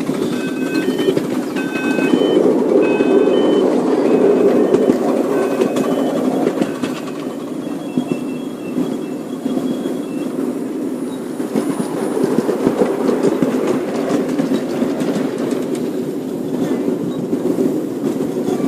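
Miniature railway train running along the track, heard from aboard: a steady rumble of wheels on the rails. A run of short high-pitched squeaks repeats about twice a second in the first several seconds.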